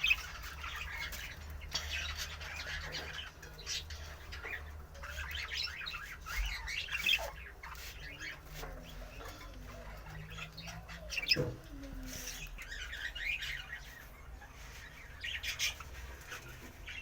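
Several caged pet birds chirping and calling in short, scattered notes, with one louder call a little past the middle.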